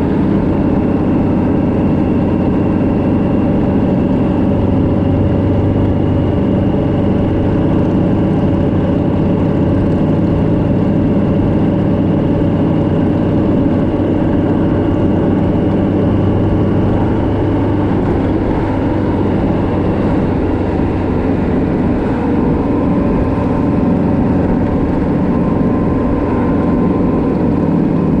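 Vehicle engine running steadily at a constant speed on the road, a continuous drone with no breaks.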